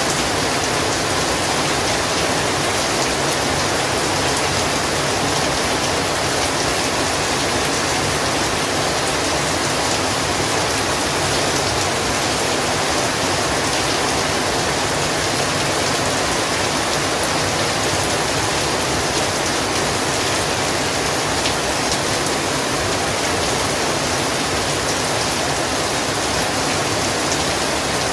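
Heavy rain falling steadily, a dense even hiss of rain on surfaces with faint individual drop ticks.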